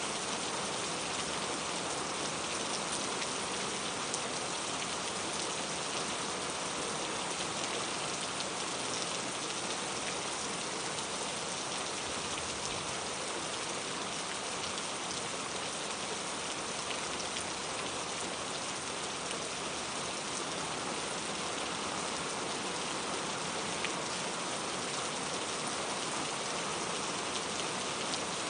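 Steady rain falling and pattering on surfaces, an even hiss with scattered faint drop ticks and no change in intensity.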